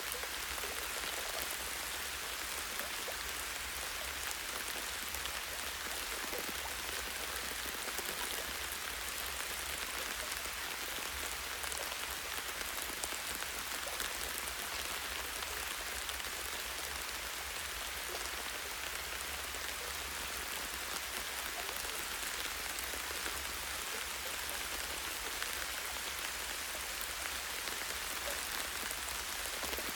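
Light rain falling steadily, many small drops pattering on a tree branch in an even hiss.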